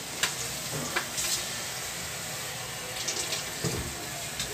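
Marinated beef slices and sliced red onion sizzling in a wok, a steady hiss with a few light clicks. The marinade has cooked down to the oil, so the meat is now frying.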